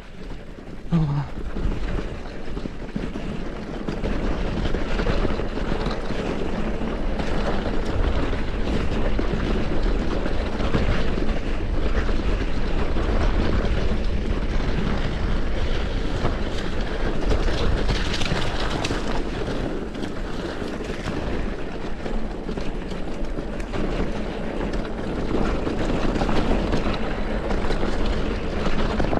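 Mountain bike riding over a rough dirt trail: steady wind rumble on the microphone with the rattle of the bike and its tyres on the ground.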